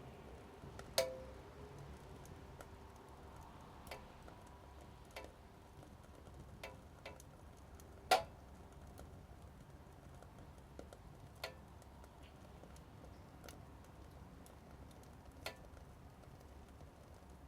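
Small wood fire crackling inside a mini wood stove: sparse, irregular sharp cracks over a faint steady background, the loudest about eight seconds in.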